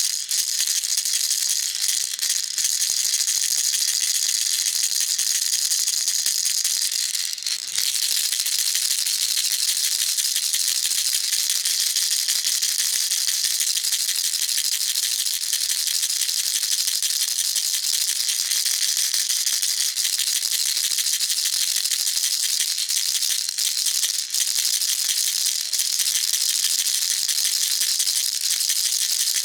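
Baby rattle being shaken continuously and fast: a dense, steady, high-pitched rattling that breaks off briefly about seven seconds in and again near twenty-four seconds.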